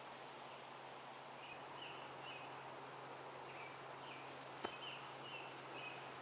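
Outdoor ambience: a steady low background hiss with a bird giving a series of short, high chirps through the second half. A single sharp click comes about four and a half seconds in.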